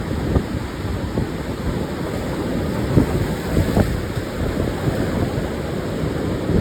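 Pacific surf washing onto a sandy beach, mixed with wind buffeting the microphone as a low, flickering rumble. There are short stronger gusts about three and four seconds in.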